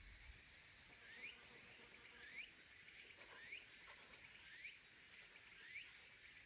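A small animal calling faintly: short rising chirps, about one a second, over a faint steady hiss.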